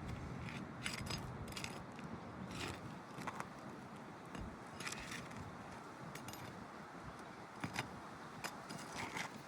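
Scattered light metallic clicks and scrapes of hand tools working at roof shingles, pulling nails.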